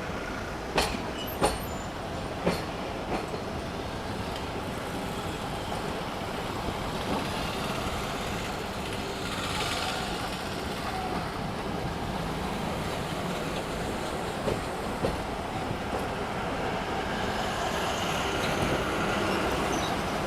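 Passenger train running along the line, with a steady rolling noise of wheels on rail and a few sharp clacks of wheels over rail joints in the first few seconds; the noise grows slowly louder near the end.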